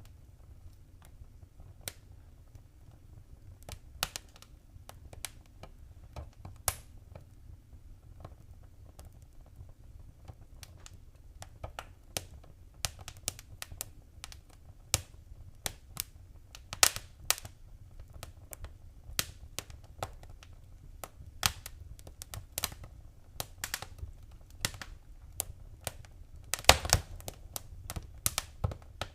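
Wood fire crackling: irregular sharp pops and snaps over a low steady rumble of the flames, sparse at first and busier from about halfway, with one louder pop near the end.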